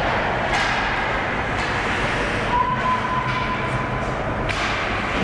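Ice hockey game in an arena: a steady wash of skates scraping the ice and spectator noise echoing in the rink, with a thin held tone for about two seconds in the middle.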